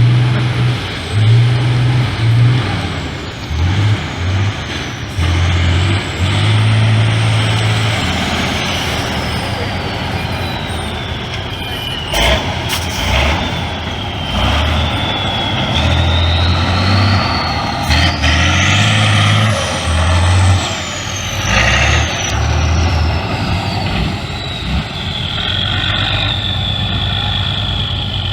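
Heavy trial truck's diesel engine working under load, its pitch rising and falling, with a high whine gliding slowly down and then back up. A couple of short sharp sounds break in about twelve and eighteen seconds in.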